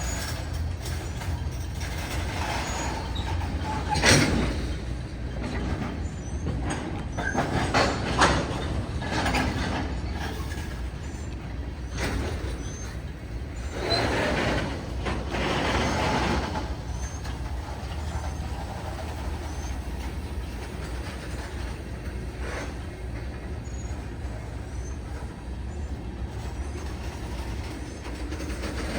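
Freight train rolling slowly along the track as it slows, with a steady low rumble. Louder noisy surges come about 4 and 8 seconds in, and a longer one from about 14 to 16 seconds in.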